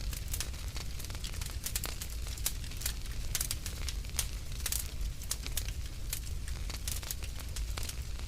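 Wood fire burning in a fireplace, crackling with many quick, irregular pops and snaps over a steady low rumble of flame.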